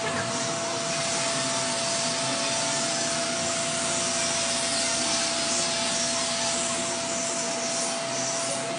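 Machine tool running steadily while machining a metal rod: an even rushing noise with a constant whine.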